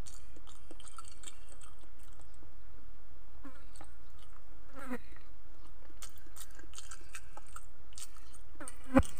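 Close-up chewing and lip-smacking of a person eating with his hands, small wet mouth clicks scattered over a steady low hum. A single sharp thump comes near the end.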